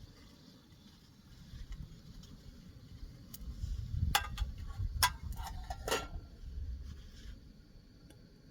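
Metal camp cookware clinking and clanking several times, sharp ringing knocks of pot, lid or utensils being handled, over a low rumble.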